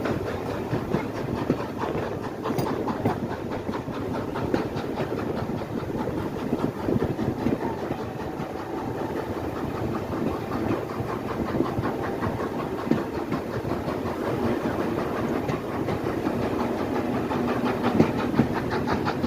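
Train running along the track, with a steady rumble and a rapid clatter of wheels over the rails.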